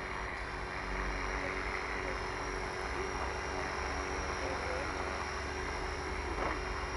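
Steady hum of a small electric radio-controlled model's motors with a constant whine, over low wind rumble on the microphone.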